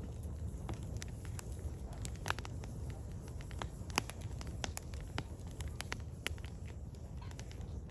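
Firewood burning: irregular sharp crackles and pops, a few louder snaps among them, over a steady low rumble.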